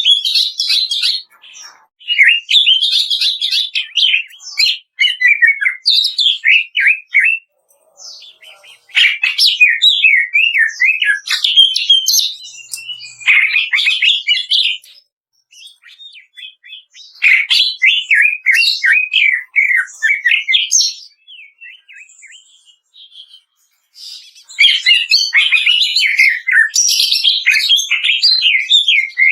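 Cucak ijo (greater green leafbird) song: bouts of fast, crackling, chattering warbles, each a few seconds long, broken by short pauses.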